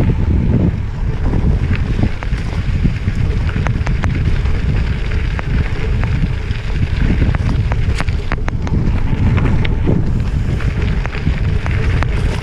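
Wind buffeting the microphone of a camera riding along on a gravel bike, a loud steady rumble. Scattered sharp clicks and rattles run through it.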